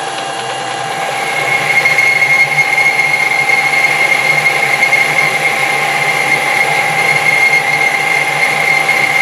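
Metal lathe running while a boring tool takes a cut inside the counterbore; from about a second in the cut adds a steady high whine over the machine's constant hum.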